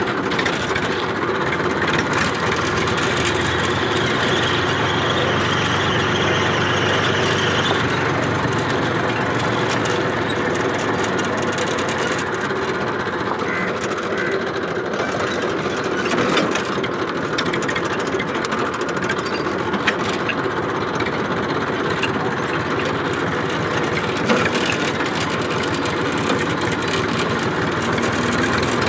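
Massey Ferguson tractor's diesel engine running steadily as the tractor drives along.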